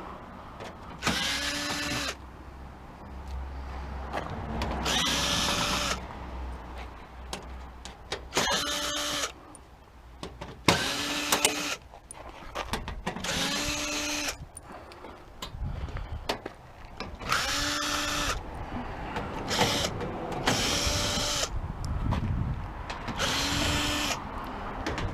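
Cordless drill/driver backing screws out of the stove's sheet-metal panels: about eight short runs, each a motor whine that spins up and winds down, with metal clatter between them.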